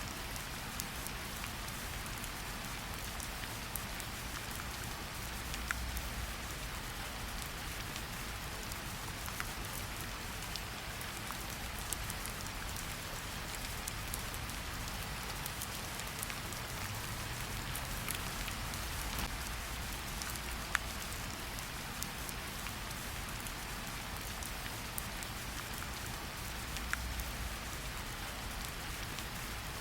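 Steady rain falling in a forest: an even hiss of drops, with a single louder drip striking close by now and then.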